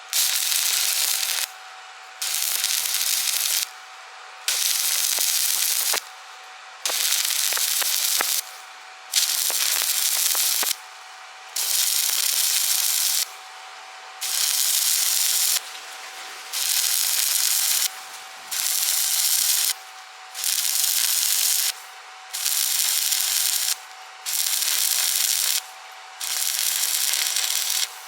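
Stick-welding arc crackling in runs of about a second and a half, broken off and struck again roughly every two seconds in a steady stop-start rhythm, about thirteen times.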